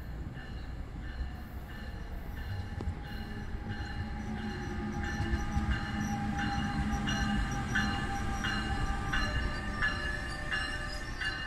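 Bombardier ALP-46A electric locomotive passing with its train, getting louder as it nears. Its steady electric whine sits over a low rumble, with regular beats of wheels over the rail joints from about halfway through.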